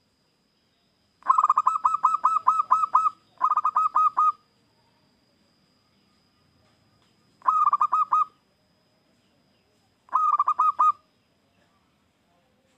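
Zebra dove (perkutut) cooing in four bouts of quick, staccato repeated notes, the first and longest lasting about two seconds, with short pauses between bouts.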